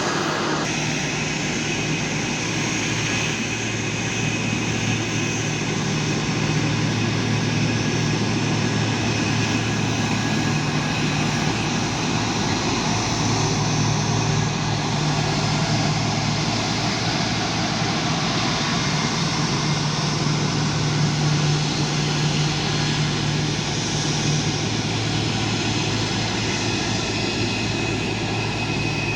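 Jet aircraft engines running steadily: a constant drone with two low hums under a wide hiss, neither building nor fading.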